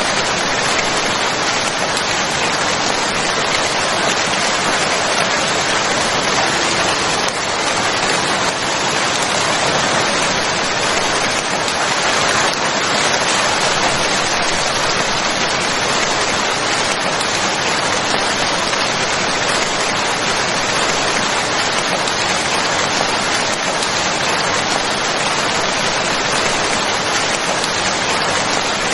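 Steady, dense rainfall: a continuous even hiss of rain falling on a surface, with no thunder or distinct drips standing out.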